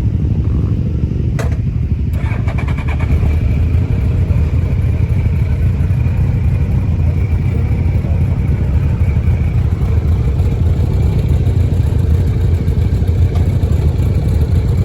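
Motorcycle engines running, a steady low rumble, with a sharp click about a second and a half in and a thin steady high tone from about two seconds in.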